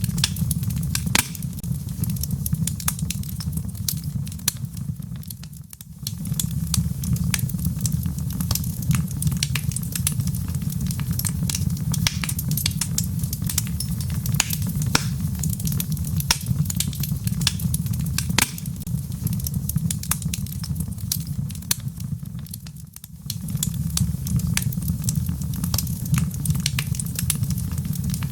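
Wood fire crackling, with frequent sharp pops over a steady low rumble. The whole sound dips briefly twice, about six seconds in and near twenty-three seconds.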